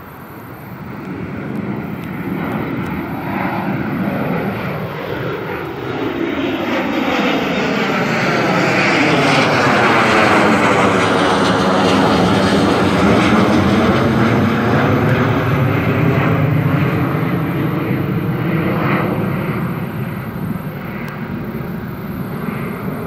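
Departing airliner's jet engines at takeoff power passing by. The roar swells for about ten seconds, peaks with a sweeping, phasing tone, then slowly fades.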